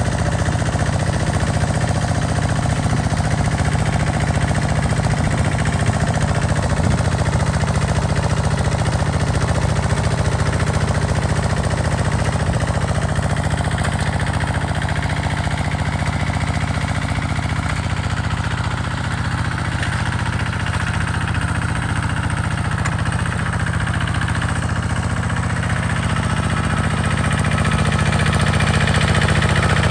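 Tractor engine running steadily under load as it harrows a field. It dips slightly partway through and grows louder near the end.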